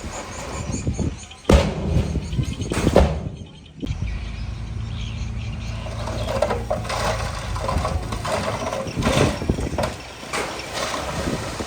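Diesel engine of earthmoving equipment running steadily, with two loud knocks in the first few seconds.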